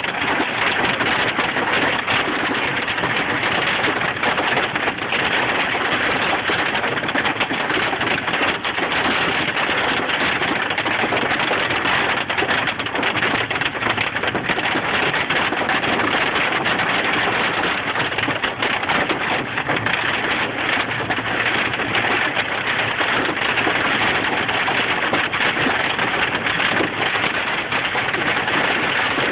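Hail and rain drumming steadily on a vehicle, a dense, unbroken patter of many small impacts.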